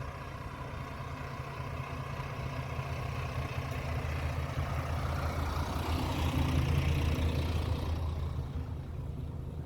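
Diesel train engine running with a steady low hum, swelling in loudness to a peak about two-thirds of the way through and then easing off.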